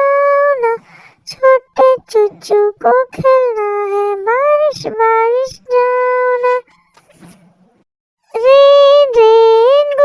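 A high-pitched, cartoon-style voice singing a children's rhyme in long held notes, in phrases with a short pause about two-thirds of the way through.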